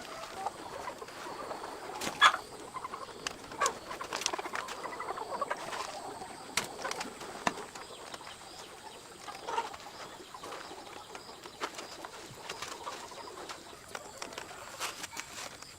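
Chickens clucking and calling in short scattered notes, with many small clicks and knocks among them; the loudest knock comes about two seconds in.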